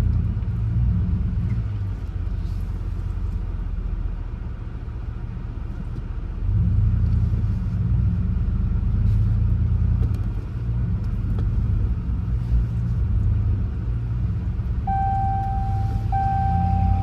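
Full-size pickup truck driving slowly, a steady low engine and drivetrain rumble that grows louder about six seconds in. Near the end a steady high tone starts and is briefly broken about once a second.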